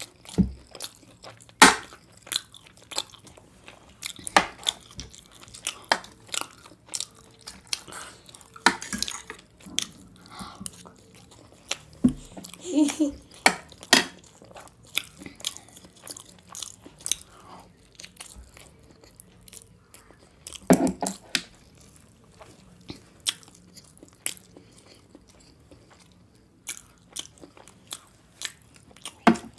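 Close-up eating sounds of a person chewing mouthfuls of food, with frequent sharp wet mouth clicks and smacks at an uneven pace.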